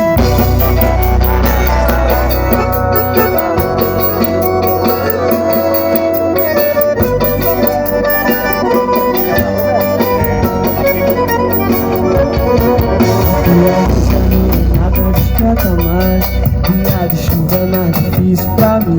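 Live band playing the instrumental intro of a pop song, with a steady drum beat, heavy bass and sustained chords.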